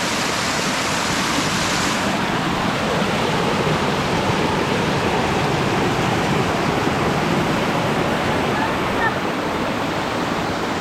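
Steady rushing of an Amazon forest stream's water, a loud even noise; its highest hiss drops off about two seconds in.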